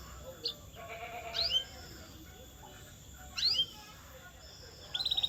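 Canary singing: a few short swooping chirps spaced apart, then a fast rolling trill that starts near the end.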